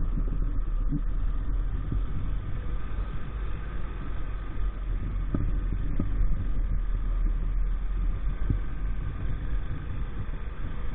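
Small 50cc moped engine running steadily, under a heavy low rumble.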